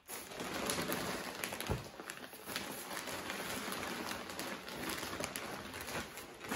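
Compost being poured out of a plastic bag into a fabric-lined plastic tub: a steady rustling hiss with scattered small ticks.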